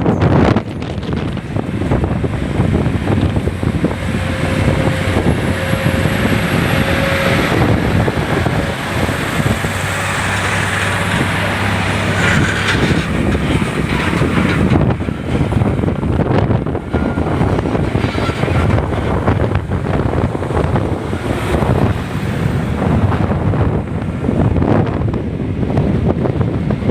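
Heavy wind buffeting on the microphone of a moving motorcycle, with vehicle and road noise beneath. A faint steady tone shows for a few seconds about four seconds in.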